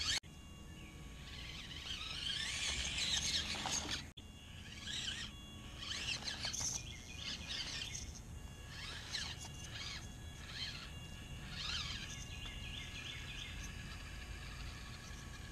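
Several birds chirping and singing over steady background noise, the song breaking off abruptly at about four seconds.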